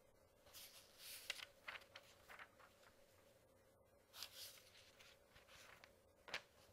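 Paper pages being turned: two bouts of crisp rustling, about half a second in and about four seconds in, then a sharp page flick near the end.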